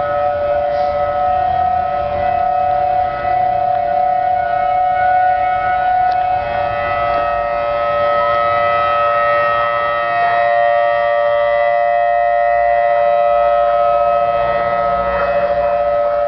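Outdoor tornado warning siren sounding a loud, steady tone made of several notes at once, holding one pitch.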